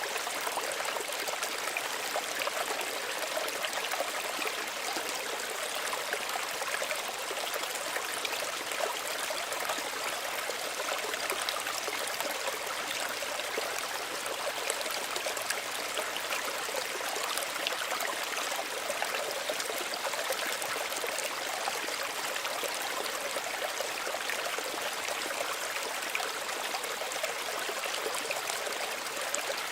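Small stream of running water, trickling and splashing steadily.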